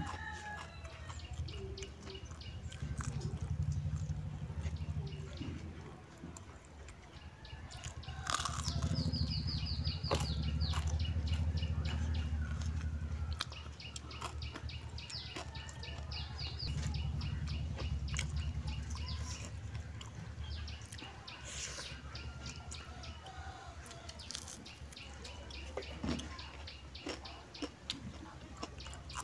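Close-up eating sounds: chewing and small clicks of fingers picking rice off a wooden platter. Birds chirp in the background, with a fast twittering trill about nine seconds in, over a low rumble that swells and fades several times.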